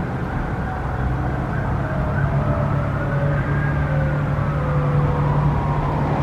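Siren wailing slowly up and down over a steady low hum.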